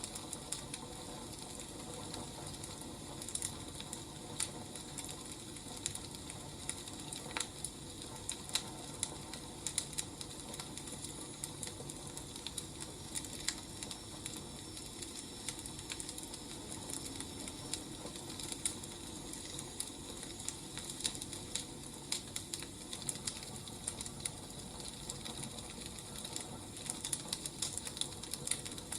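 Wood fire burning: irregular crackles and pops over a steady hiss, the pops coming a little thicker near the end.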